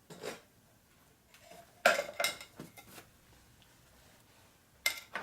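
Metal hand tools clinking as they are handled and set down: several short, sharp metallic clinks, a cluster of them about two seconds in and one more near the end.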